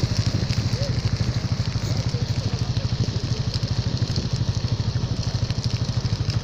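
Diesel engine of farm machinery running steadily at a constant speed, with a fast, even pulse.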